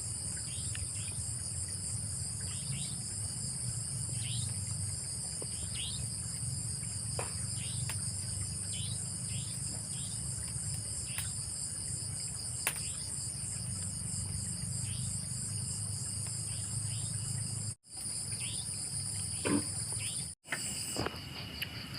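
Night chorus of crickets, a steady high pulsing trill, with short falling chirps about once a second and a low steady rumble underneath. The sound cuts out completely for an instant twice near the end.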